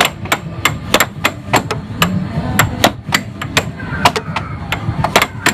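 Air hockey rally: plastic mallets striking the puck and the puck clacking off the table's rails, a fast, irregular run of sharp clacks, several a second.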